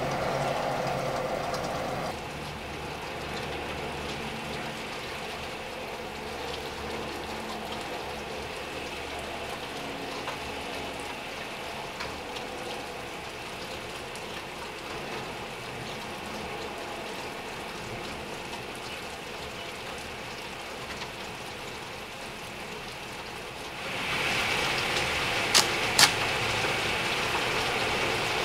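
Steady rain heard through a window pane, with a faint low hum under it; the rain grows louder near the end, where two sharp taps sound close together.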